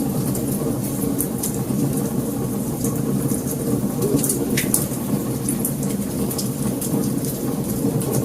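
Wood fire burning: a steady low rumble of flames with frequent small crackles and pops from the burning wood.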